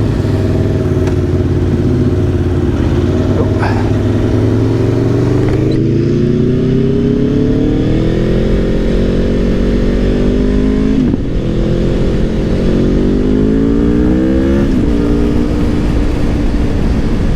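Aprilia Tuono V4 Factory's V4 engine accelerating hard, the revs climbing for several seconds, dropping at a gear change about eleven seconds in, then climbing again and dropping once more about fifteen seconds in, over steady wind rush.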